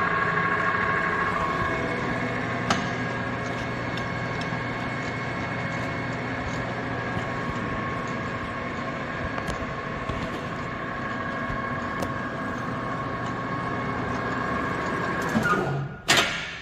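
Jet GH 1440ZX geared-head lathe running with its threading feed engaged: a steady gear whine over a low hum. About fifteen seconds in it winds down, with one loud clunk near the end.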